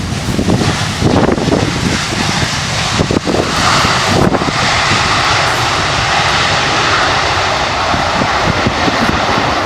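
Passenger airliner's engines running loud and steady as it passes, swelling about three and a half seconds in, with gusty wind buffeting the microphone.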